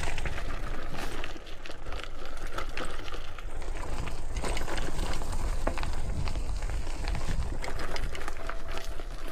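Mountain bike riding over a rough dirt trail: tyres crunching and the bike and its load rattling, with many small sharp knocks over a constant low rumble.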